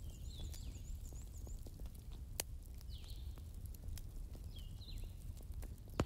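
Small birds chirping in the background: a short falling call repeated about every one and a half seconds, with a quick high twitter in the first second or so. A low steady rumble runs underneath, scattered faint clicks sound throughout, and a sharp click comes near the end.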